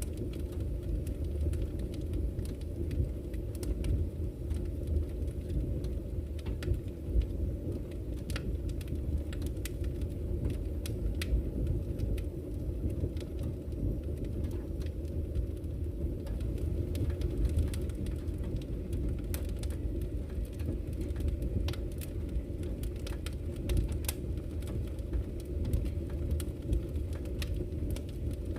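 Campfire crackling, with frequent irregular sharp pops over a steady low rumble of flowing river water.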